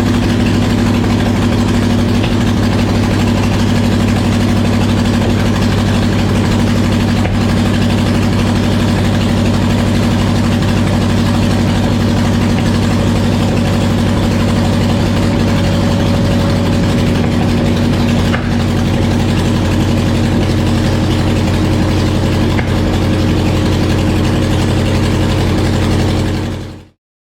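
Mooney aircraft piston engine running steadily on its first run in an engine test cell. The sound cuts off abruptly near the end.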